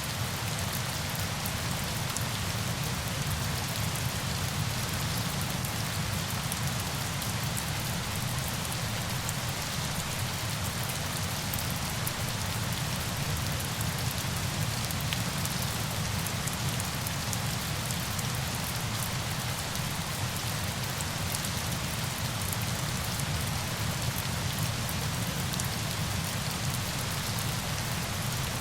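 Steady falling water, a dense even rush with a fine crackle of drops, unchanging throughout.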